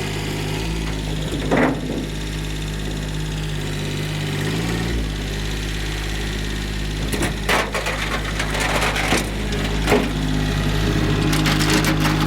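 Tractor engine running steadily while the old truck bed it carries knocks and scrapes, with a single bang about a second and a half in and a run of clanks and cracking impacts from about seven seconds on as the bed is set down.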